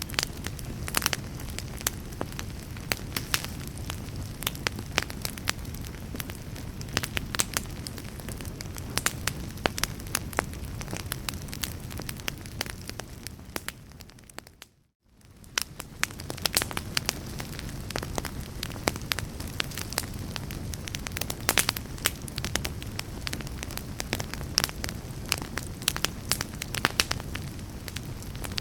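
Fireplace fire burning with a low rumble and frequent sharp crackles and pops. About halfway through it fades out to silence for a moment, then fades back in.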